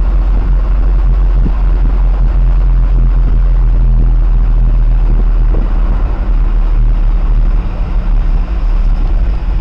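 Lamborghini Gallardo Spyder's V10 engine cruising on the road, a steady low drone with road rumble heard from inside the car. The engine tone fades near the end.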